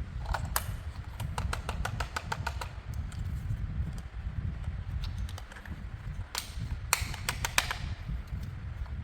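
Two runs of rapid sharp clicks, about six a second, one starting about a second in and one near two-thirds through, over a steady low hum.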